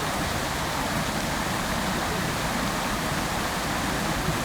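Public fountain: water jets falling and splashing into the basin, a steady, even rush of water.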